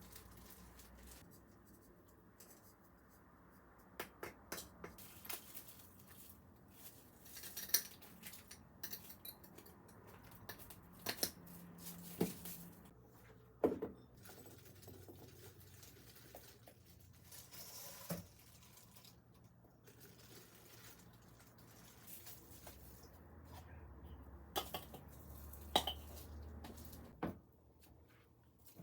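Kitchen utensils and dishes being handled: scattered faint clinks, taps and knocks at an uneven pace.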